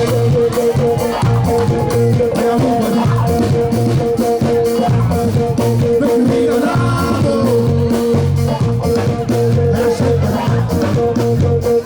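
Live band playing an upbeat Afrobeat-style groove, with a steady drum beat and a pulsing bass line under a long held note. No lyrics are sung in this passage.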